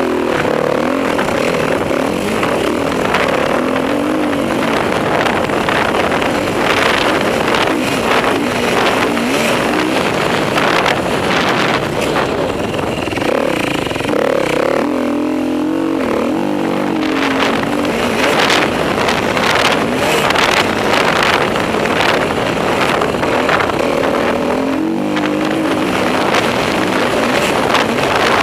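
Off-road motorcycle engine revving up and down repeatedly as it is ridden around a motocross track, its pitch climbing and dropping through the gears over a steady rushing noise.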